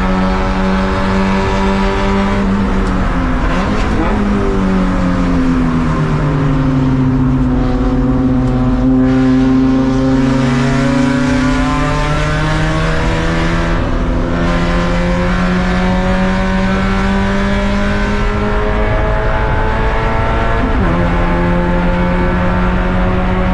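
Race car engine heard from inside the car at speed. About three seconds in the revs fall off and stay low through a long stretch, then climb steadily again as the car accelerates. Near the end the engine note jumps suddenly at a gear change.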